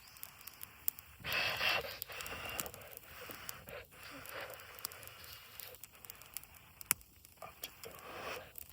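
Wood campfire crackling with scattered sharp pops, with a brief louder rustling noise about a second in and softer ones later.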